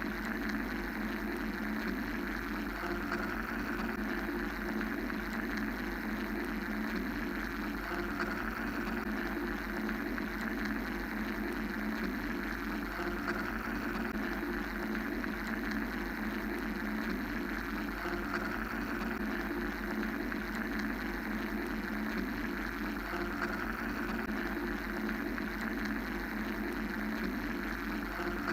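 Steady mechanical drone with a constant hum underneath and a rushing noise layer that slowly swells and fades every several seconds, a continuous white-noise-style machine sound.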